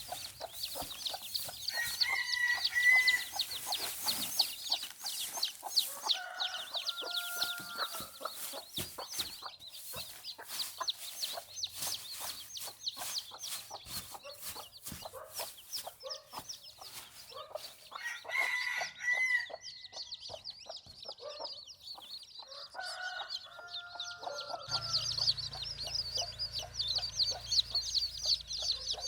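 A flock of chickens: constant high peeping, hens clucking, and longer crowing calls twice, about two seconds in and again about eighteen seconds in.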